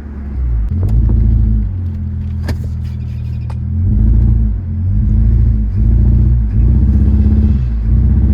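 Mitsubishi Eclipse GS 2.4-litre four-cylinder engine accelerating under load in several surges that swell and sag, still bogging down a little. This comes from a cylinder 2 misfire, which the owners suspect comes from a loose spark plug or a bad coil. A few sharp clicks sound in the first half.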